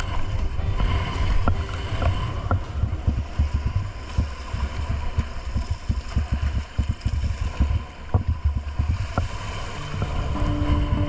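Wind buffeting the microphone on a moving vehicle: a loud, uneven rumble with scattered crackles.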